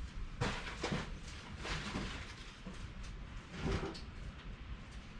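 Household items being handled and moved: a handful of scattered knocks and rustles over a steady low rumble.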